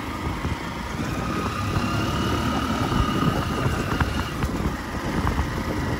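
Small motorbike engine running steadily as it carries riders along a rough dirt footpath, with a faint held whine above the rumble.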